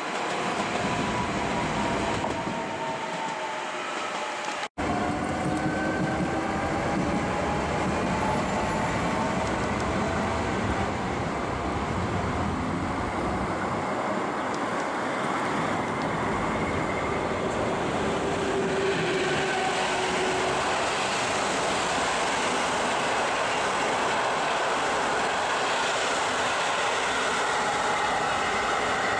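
Electric trains passing on a multi-track line: steady rolling noise of wheels on rail with faint high whining tones, some falling in pitch early on. The sound cuts out for an instant about five seconds in.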